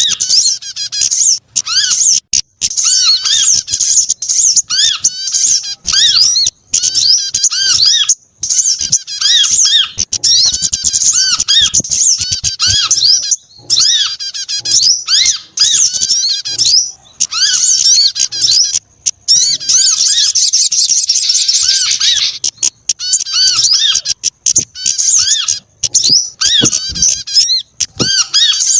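Bird-lure recording of small songbirds calling: rapid, overlapping high chirps and squeaky call notes repeated over and over with short gaps, and a denser unbroken twittering run for about two seconds roughly two-thirds of the way through.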